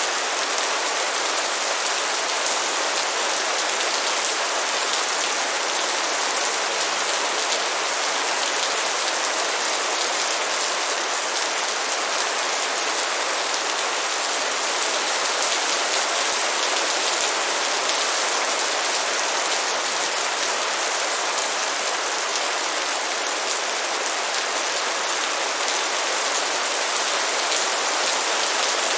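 Steady light rain falling: an even hiss of many fine drops pattering on a surface, unchanging throughout.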